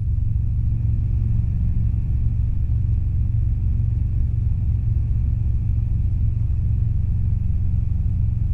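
Robinson R22 helicopter's piston engine and two-blade rotor running steadily: a dense low drone with a faint, thin steady tone above it.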